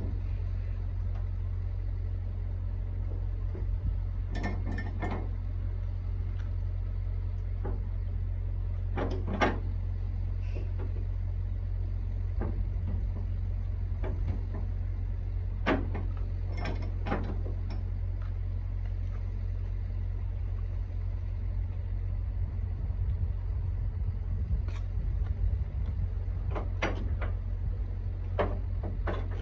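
Steady low drone of a truck's engine heard inside the cab, with scattered short clicks and knocks every few seconds.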